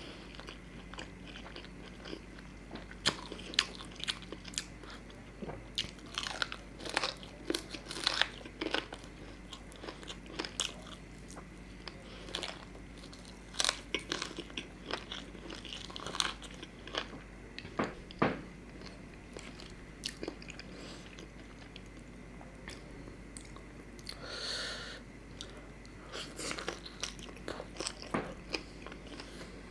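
Close-up eating sounds of tandoori chicken eaten by hand: wet chewing and sharp lip-smacking clicks, coming irregularly and in little clusters, with finger licking.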